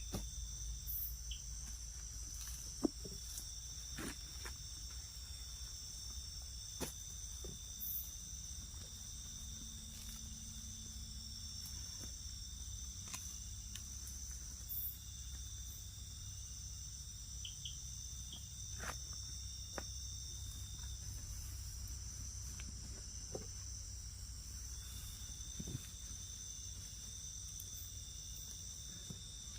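Night-time insect chorus of crickets and similar insects: several steady high trills at different pitches, one of them stopping and starting. Occasional faint clicks and small knocks sound over it.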